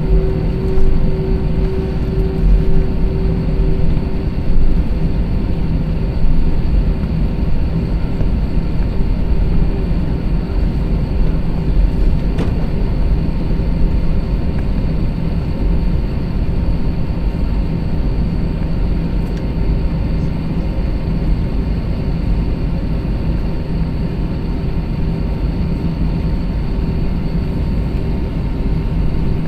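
Airbus A321-200 jet engines heard inside the cabin from a rear economy window seat: a loud, steady rumble with a constant hum, the pitch holding level throughout. A single brief click sounds about twelve seconds in.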